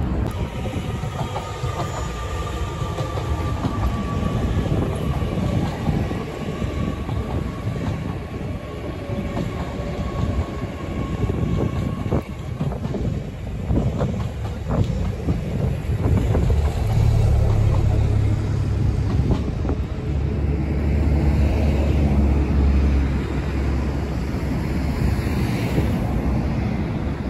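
A train running through a station, its wheels clacking over the rails, with a deep steady hum through the second half.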